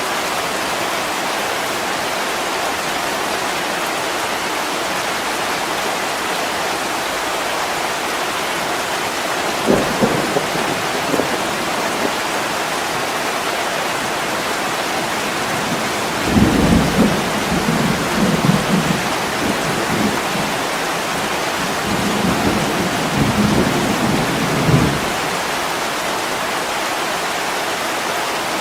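Heavy rain pouring steadily on window glass, with rolling thunder: a short rumble about a third of the way in, then longer, uneven rumbles from a little past halfway until near the end.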